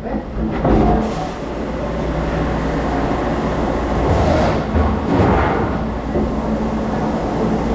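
Steady loud mechanical rumble with some clatter.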